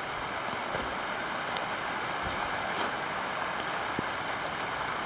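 Heavy rain pouring down in a steady, dense hiss, with a few sharp drip ticks scattered through it.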